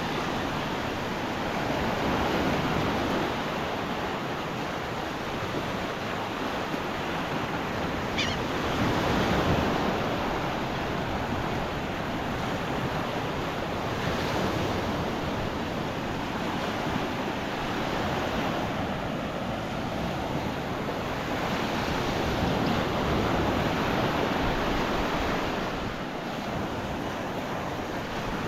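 Gulf of Mexico waves breaking and washing up a sandy beach, a steady rush that swells and eases every few seconds.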